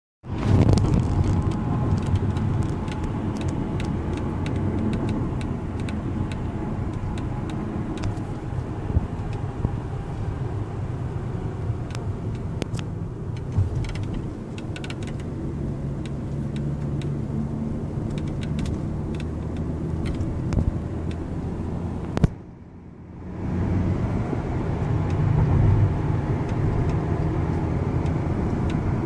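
Mercedes-Benz E350 sunroof making irregular sharp clicks and ticks over the steady road noise in the car's cabin while driving, the annoying sunroof noise the owner wants to trace.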